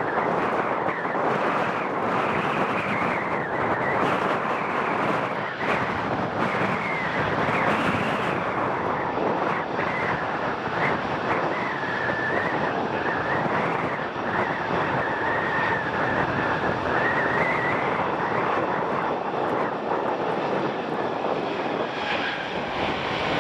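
Jet airliner engines running: a loud, steady rush with a high whine that wavers slightly in pitch.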